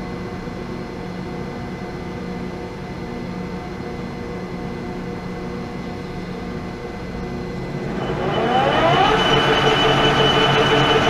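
Pratt & Whitney Model B lathe running steadily at 490 RPM, a hum with several steady tones. About eight seconds in it gets louder, with a brief rising whine and a high steady ring, as the tool starts a 40-thousandths cut into stainless steel.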